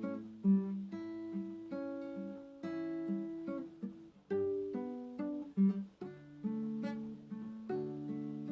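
Acoustic guitar playing a slow, gentle piece, plucked notes and soft chords ringing one into the next.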